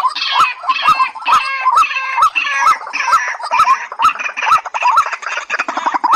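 Calls of white-breasted waterhen and watercock: a fast, even series of short hooked notes, about two to three a second, with harsher chattering notes layered above them and sharp clicks in between.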